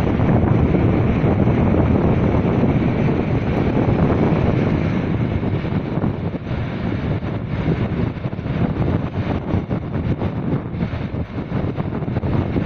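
Strong wind buffeting the microphone: a loud, rough rumble that eases a little about five seconds in.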